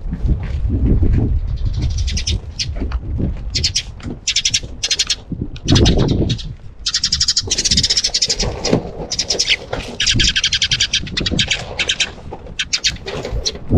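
Sparrows chirping: many short chirps in quick runs, overlapping one another, with low thuds and rumble underneath.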